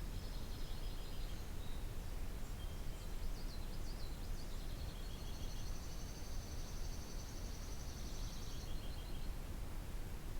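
Songbirds singing high, rapidly repeated trilling phrases, several overlapping about halfway through, over a steady low rumble of background noise.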